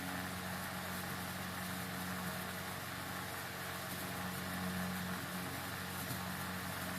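Electric radiator cooling fan motor running steadily: an even hum with a low drone and a steady whirring hiss.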